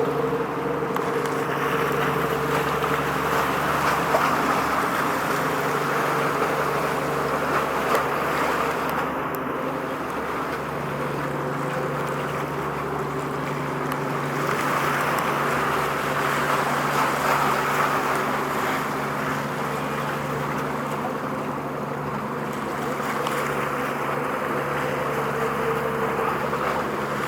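A steady engine drone, with a constant low hum and a rushing noise that slowly swells and eases.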